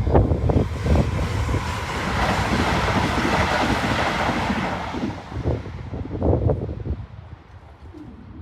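Northern electric passenger train passing over a level crossing: a rushing rumble that swells a few seconds in and then fades away as the train recedes, with low buffeting thumps at the start.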